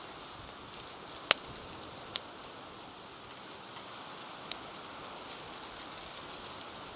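Wood campfire crackling, with three sharp pops, the first the loudest, over a steady rush of surf.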